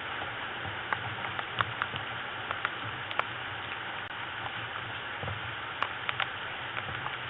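Steady rain: an even hiss with single drops tapping sharply here and there.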